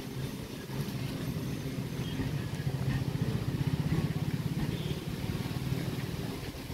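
Electric multiple-unit local train running past on the rails, a steady low rumble of wheels and coaches that swells to its loudest about four seconds in.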